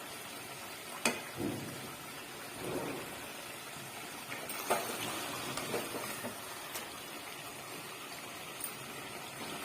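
Chicken bhuna masala sizzling as it fries in oil in a pan: a steady hiss with a few sharp knocks.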